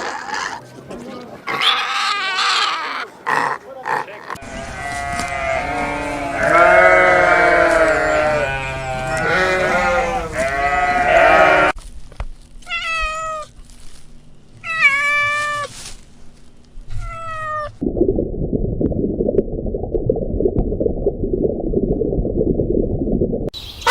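A run of different animal calls, one clip after another: a chorus of many overlapping cries, then a few separate cries that fall in pitch, then a low, rough noise for the last few seconds.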